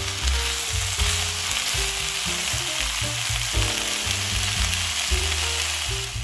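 Chicken pieces and broccoli in butter and soy sauce sizzling steadily in a nonstick frying pan while being stirred with a silicone spatula.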